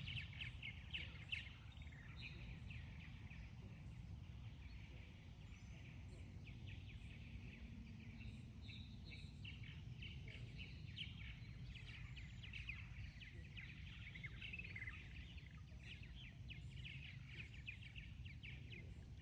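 Small birds chirping and twittering quietly and continuously over a low steady rumble of outdoor background noise.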